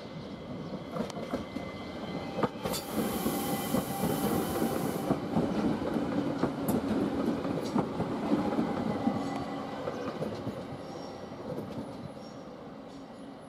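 ÖBB class 4024 Talent electric multiple unit passing, its wheels clicking over rail joints and points. It grows louder over the first few seconds, is loudest while it passes, and fades as it pulls away.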